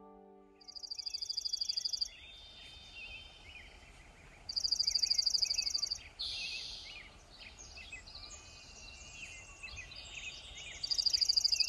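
Morning birdsong: a bird sings a fast, even, high trill of about a second and a half, three times about five seconds apart, while other birds chirp in between.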